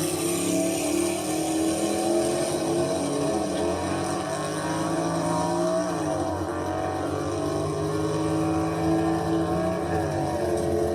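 Car engine running at high revs, its pitch gliding down and back up around the middle and again near the end.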